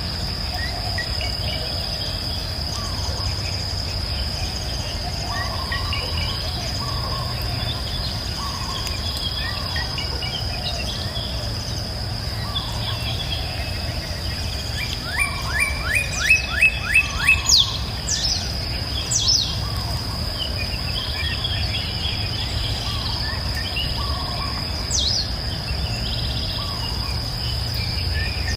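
Wild birds singing and chirping over a steady high-pitched insect trill, with a low steady rumble underneath. About halfway through, one bird gives a quick run of about seven rising notes, followed by a few sharper chirps.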